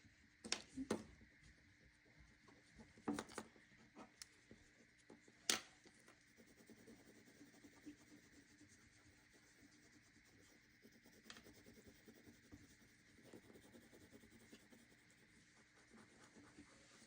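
Faint scratching of a crayon colouring lightly on paper, with a few light taps and clicks in the first six seconds or so.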